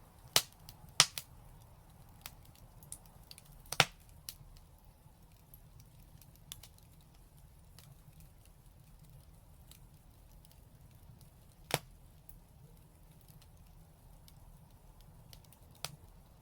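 Fire in a brick fireplace crackling: a few loud, sharp pops in the first four seconds, another about 12 seconds in and one near the end, with faint ticks between.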